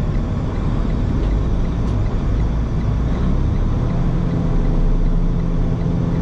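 Semi truck's diesel engine droning in the cab with road noise. About three and a half seconds in, the engine note changes and settles into a steadier hum.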